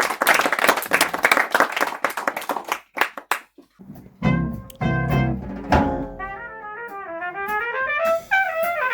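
A patter of claps, which the poem's ending makes audience applause, fades out in the first two and a half seconds; after a short silence, instrumental music starts about four seconds in, with a horn playing a melody that bends up and down over a bass line.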